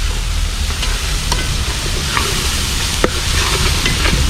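Onion and tomato masala sizzling in hot coconut oil in a pan while a spoon stirs it, with a few sharp clicks of the spoon against the pan.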